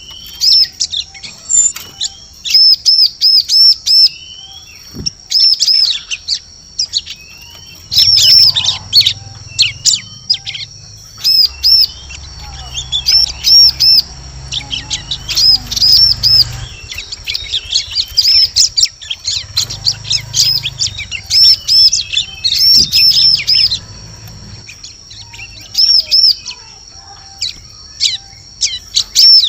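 Bar-winged prinia (ciblek) calling: runs of sharp, high chirps repeated quickly, with short pauses between the runs, over a steady thin high tone. It is played as a lure call for attracting the bird.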